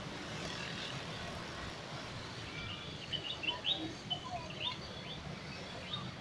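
Outdoor ambience with a steady low rumble, and a run of short, quick bird chirps from about three seconds in.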